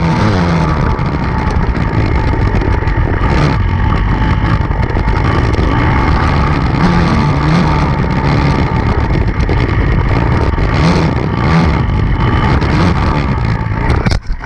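Enduro dirt-bike engine running hard under load, its revs rising and falling as it rides rough ground. The sound cuts out briefly just before the end.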